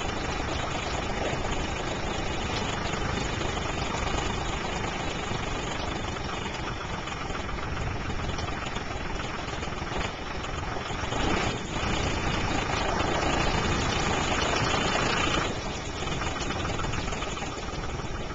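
Tractor engine running steadily, then louder from about eleven seconds in until about fifteen seconds, when it drops back: the engine working under load as it pushes against a tree stump.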